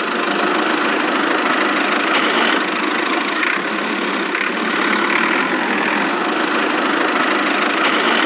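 A small motor running steadily, with an even mechanical hum.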